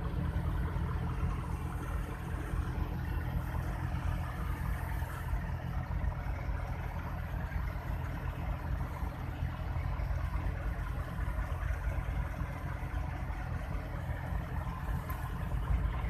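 Vehicle engine idling steadily in slow traffic, a low even hum heard from inside a car's cabin.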